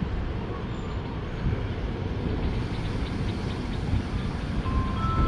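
Low, steady rumble of a diesel train approaching the station platform. A few steady high tones set in near the end.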